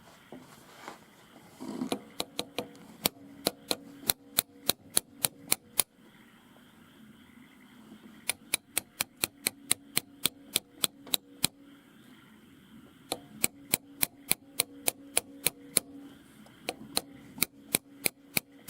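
Sharp clicks repeating evenly at about three to four a second, in four runs with short pauses between them, over a faint steady hum.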